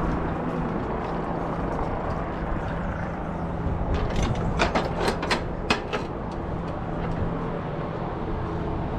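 Steady low engine rumble with a constant hum, and a quick run of sharp clicks or knocks about four to six seconds in.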